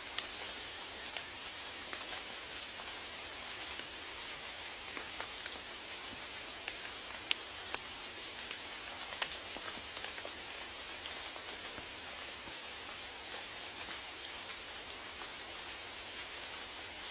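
Steady rain hiss with scattered individual drops ticking sharply on a surface.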